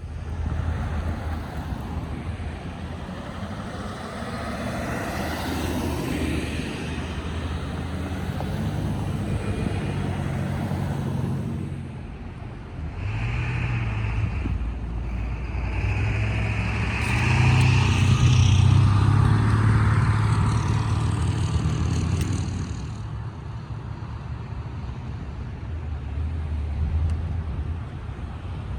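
Motor vehicle engines running at a roadside, a steady low engine hum with road noise that swells louder for a few seconds about two-thirds of the way through, then settles.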